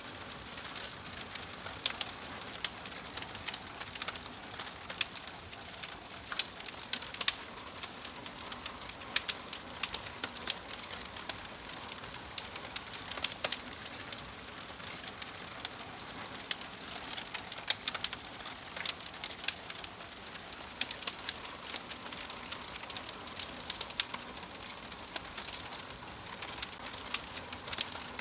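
Wood fire crackling in a fireplace: irregular sharp snaps and pops over a steady soft hiss.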